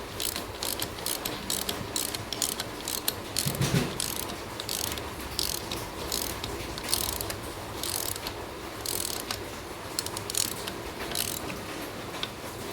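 Hand tools working on engine parts: irregular sharp metallic clicks and rattles, a ratchet-like clicking at times.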